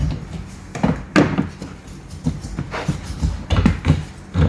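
A series of knocks and clunks, about half a dozen, from hands and tools working loose the parts of a car's wiper cowl and wiper linkage under the windscreen.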